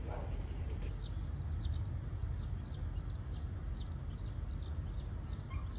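Outdoor ambience: a steady low rumble, with a small bird chirping in quick, short, high notes from about a second in.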